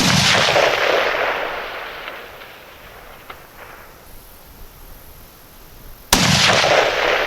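Two 6.5 Creedmoor rifle shots about six seconds apart, each a sharp crack followed by a long rolling echo that fades over about two seconds.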